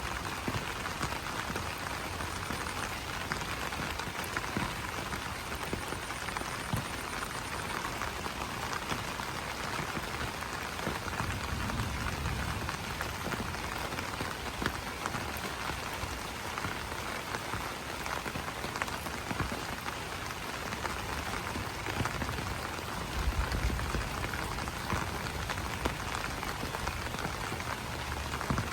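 Steady rain, with many drops pattering on broad banana leaves.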